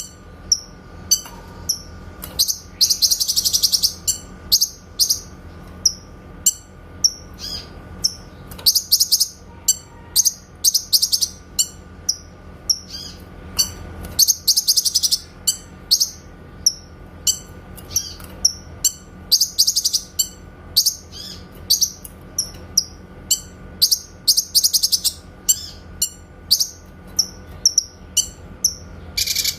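Cucak kinoy singing a quick run of short, sharp, high-pitched notes, the clear "tembakan" (shot-like) calls, broken every few seconds by longer rapid trills.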